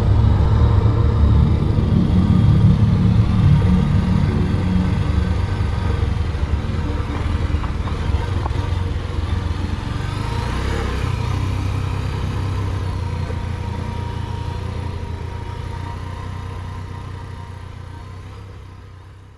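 Motorcycle engine running at fairly steady revs, fading out over the last few seconds.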